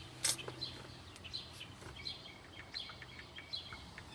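Small birds chirping repeatedly in short high notes, over a low steady hum. A single sharp click, the loudest sound, comes right at the start.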